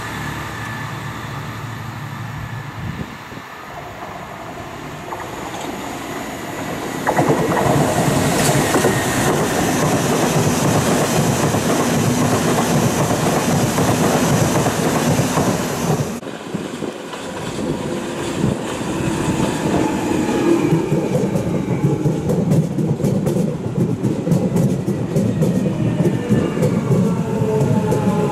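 London Underground electric trains running through stations: a steady wheel-and-rail rumble with clickety-clack. It turns suddenly louder about seven seconds in and drops off abruptly past the halfway point. Near the end a whine falls gradually in pitch over the rumble.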